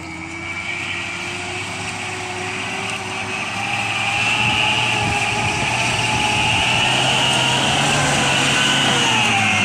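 Truck engine running steadily, growing louder about four seconds in and holding there.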